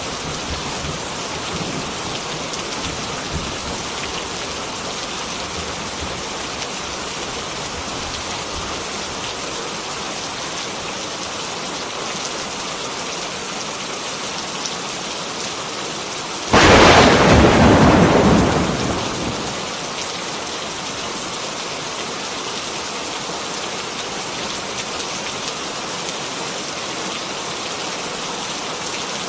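Heavy rain falling steadily, with a sudden loud thunderclap a little past halfway that dies away over two or three seconds.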